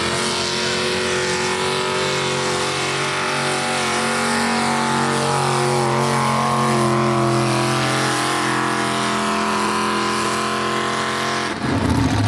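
Super-mini pulling tractor's V8 engine held at high revs through a pull, a loud steady drone whose pitch drifts only slightly. Near the end the sound cuts abruptly to a different, rougher engine noise.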